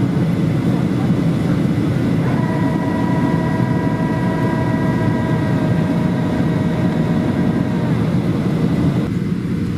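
Steady, loud cabin noise of a Boeing 737-800 airliner from a window seat: jet engine and airflow rumble. About two seconds in, a steady whine of several tones sets in and cuts off after about five and a half seconds.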